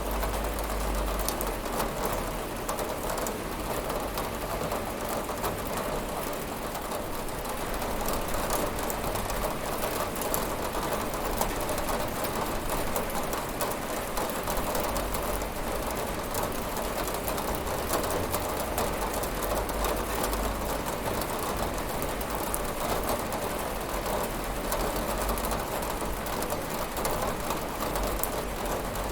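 Steady rain pattering on a window glass: a dense, even hiss of drops with fine ticks of single drops throughout and a low rumble underneath.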